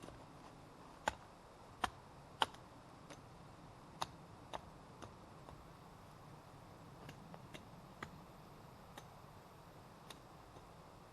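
About a dozen sharp snaps and clicks at irregular intervals, the three loudest close together in the first two and a half seconds, the rest fainter and scattered, over a faint steady background.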